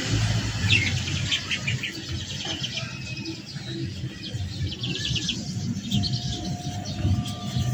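Small birds chirping in short bursts of quick high notes, coming and going several times, over a steady low background rumble.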